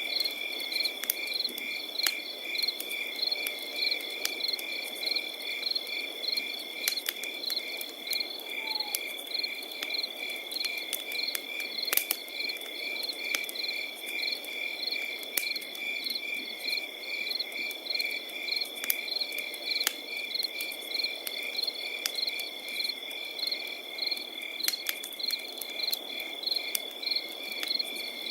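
Crickets chirping in a steady, even rhythm over a continuous high trill, with scattered sharp crackles and pops from a campfire.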